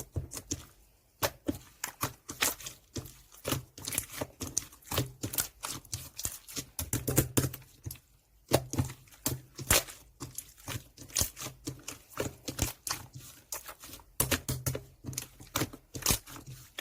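Clear slime being squeezed and worked by hand, making a quick, irregular run of sticky clicks and pops.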